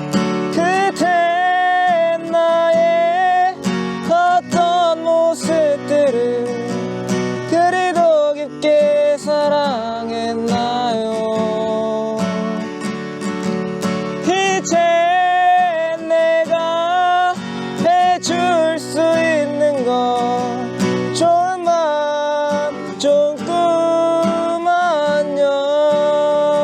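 Acoustic guitar strumming chords under a voice carrying a slow melody with long, wavering held notes.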